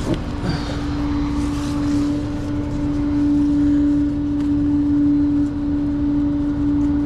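Tow truck's hydraulic system running under the engine, a steady whine held over a low rumble while the bed or winch is worked.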